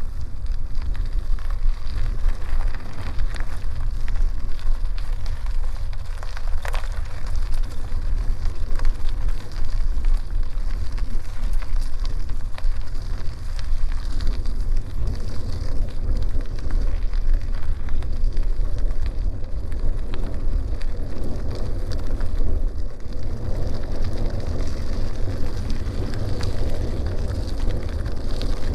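Bicycle tyres crackling over a dirt and gravel forest road while riding, with wind rumbling on the microphone.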